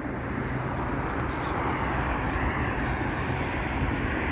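Road traffic passing: a steady rush of tyres and engines, swelling slightly midway.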